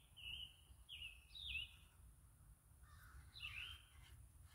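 Faint bird calls: a run of short, high calls with quick pitch slides in the first two seconds, then a harsher, lower call about three seconds in.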